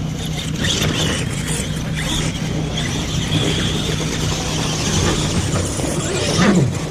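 Radio-controlled monster trucks racing, their motors whining over a steady low hum, with a high-pitched whine through the middle.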